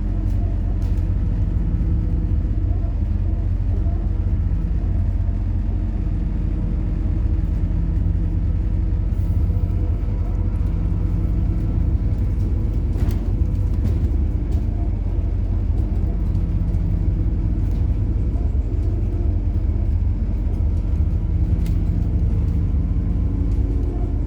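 Steady low rumble inside a moving MAZ-103 city bus running on methane (compressed natural gas): engine drone mixed with road noise, with a few faint clicks.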